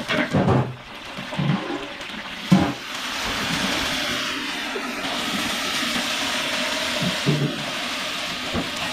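Water gushing steadily for several seconds, after a few short knocks at the start.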